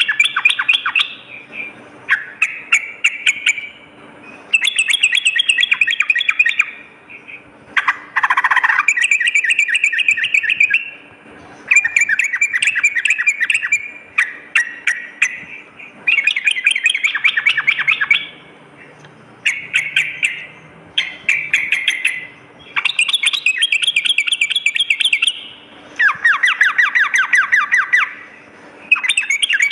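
Yellow-vented bulbul (trucukan) singing in rapid chattering bursts of one to two seconds, repeated with short pauses between them.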